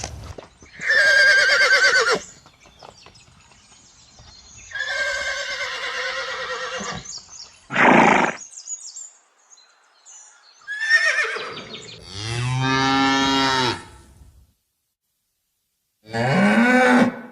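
A string of separate farm animal calls cut one after another. The first few are higher, quavering calls; from about twelve seconds in come deep cow moos, the last one rising in pitch near the end.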